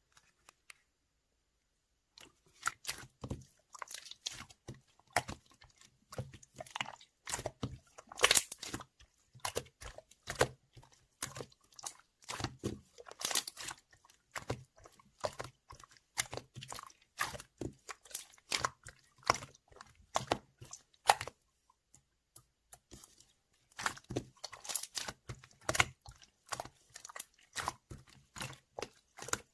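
Slime being squeezed and pressed by hand, giving dense irregular crackling clicks and pops. It starts about two seconds in and pauses briefly about three-quarters of the way through.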